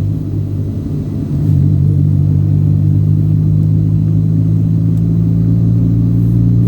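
A road vehicle droning steadily as it is driven, with engine and road noise. It eases off in the first second or so, then holds a steady low pitch.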